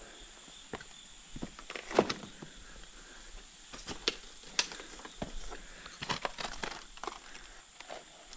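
Irregular knocks and clicks of footsteps and shifting stones on a rocky creek bed, the sharpest about two seconds in and a quick run of them around six seconds.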